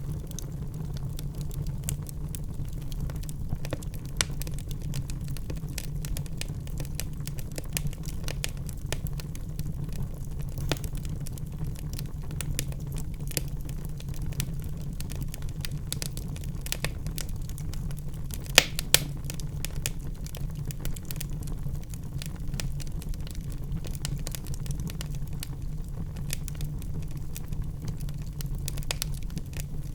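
Burning logs crackling in a fireplace: many small sharp pops over a steady low rumble of the fire, with two louder pops close together about 19 seconds in.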